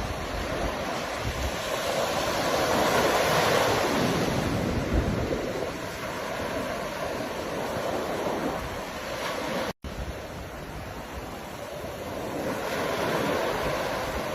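Ocean surf: waves breaking and washing in a steady roar that swells about three seconds in and again near the end. A split-second gap in the sound cuts in just before ten seconds.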